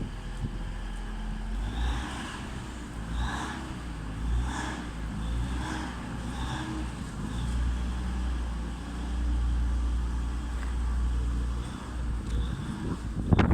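Class 185 diesel multiple unit's engines running as the train departs, a deep, steady rumble. Wind buffets the microphone right at the end.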